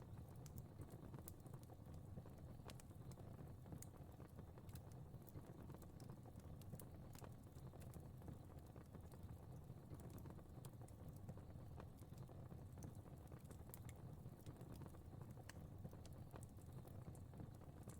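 Fire crackling faintly in a fireplace: scattered small pops and snaps over a low, steady rumble of the flames.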